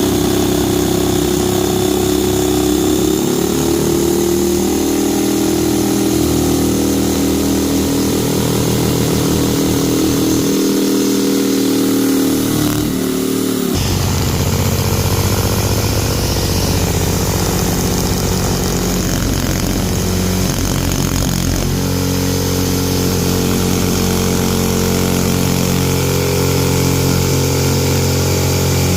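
Electric power saw running steadily while cutting out panel shapes; its pitch changes abruptly about halfway through.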